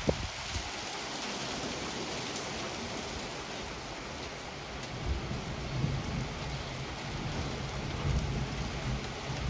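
Steady rain in a thunderstorm, with low rumbles of thunder swelling about halfway through and again near the end.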